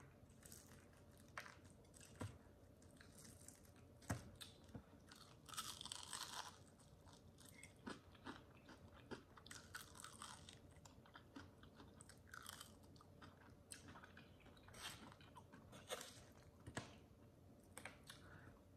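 Faint, close-up crunching and chewing of a crispy fried chicken wing: irregular sharp crunches as the breading is bitten and chewed, with short crackly stretches between.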